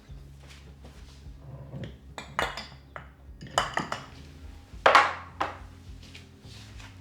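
Dishes and cutlery being handled: a handful of sharp clinks and knocks, loudest about five seconds in.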